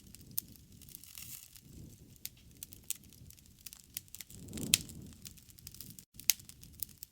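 Wood fire crackling, with irregular sharp pops over a low rumble of burning. The rumble swells for about a second two-thirds through, with the loudest pop in the middle of it.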